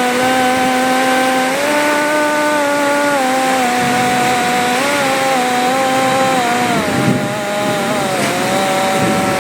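A small engine running at a high, steady pitch that dips slightly a few times, over a constant rushing noise.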